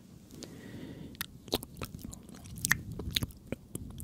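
Close-miked ASMR mouth sounds: irregular sharp clicks and smacks, a few a second, over a soft low rustle.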